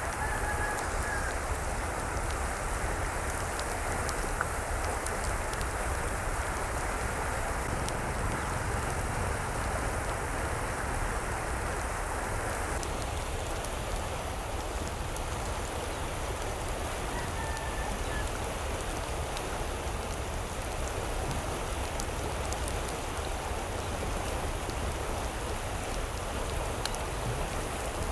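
Steady hiss of rain falling, with its sound shifting a little about halfway through. Two faint short calls, likely fowl, come through about a second in and again past the middle.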